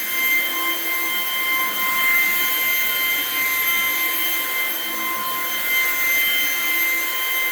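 Portable vacuum cleaner running steadily over a throw rug, a constant rushing noise with a high-pitched motor whine.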